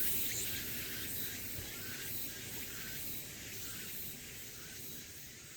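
Cicada call trailing off into a steady high buzzing hiss with a few faint pulses, slowly getting quieter.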